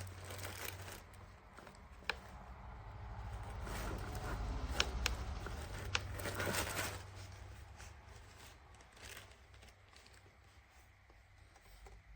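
Rustling and crinkling of packaging being handled, with a few sharp clicks, over a steady low hum.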